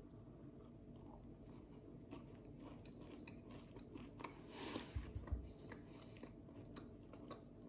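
A person biting into and chewing a soft, still-warm oatmeal and raisin cookie with the mouth closed: faint, with scattered small mouth clicks. The chewing gets a little louder for a moment about five seconds in.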